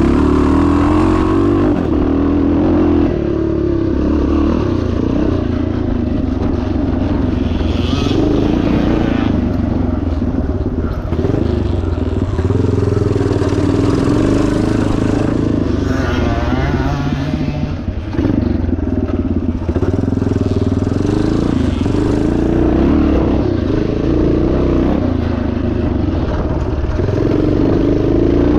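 1977 Yamaha TT500's single-cylinder four-stroke engine being ridden hard off-road, its revs rising and falling constantly as the throttle opens and closes, with a brief easing off about eighteen seconds in.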